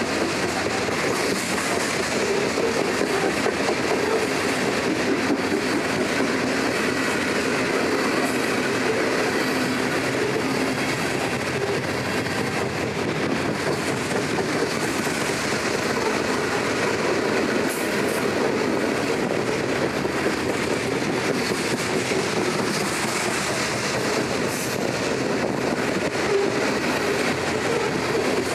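Train cars rolling steadily past, a continuous noise of wheels on the rails that holds an even level throughout.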